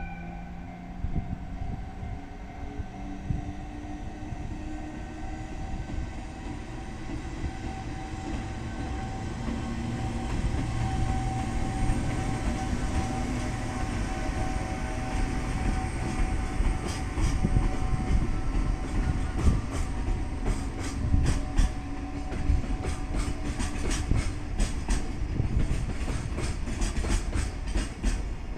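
A train running past on the line: a steady low rumble, with the wheels clacking over rail joints from about halfway through, the clacks coming thick and fast near the end.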